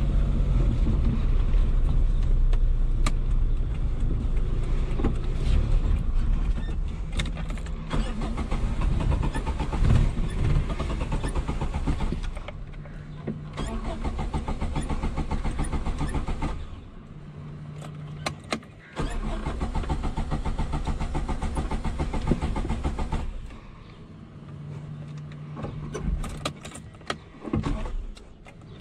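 1989 Suzuki Khyber's 993 cc three-cylinder G10 engine, heard from inside the cabin, running roughly and dropping away three times as it stalls. Short bursts of noise in the later dips are the engine being cranked back to life on the key.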